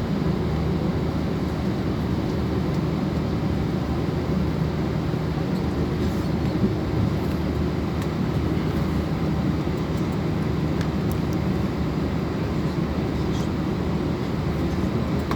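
Airbus A320's twin jet engines running, a steady deep drone with a low hum and no change in pitch or level.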